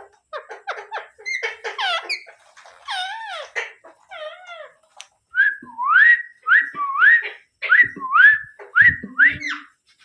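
Pet Indian ringneck parrot calling: a string of quick chirps and warbling whistles, then a run of eight or so loud rising whistled notes in quick succession that stops shortly before the end.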